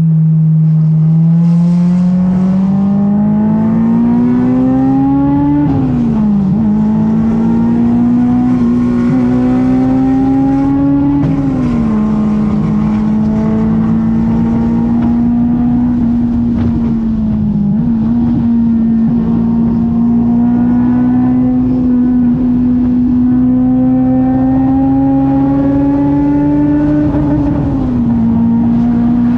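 Honda S2000's high-revving four-cylinder engine run hard under load, its pitch climbing slowly and then dropping sharply about four times at gear changes or lifts of the throttle.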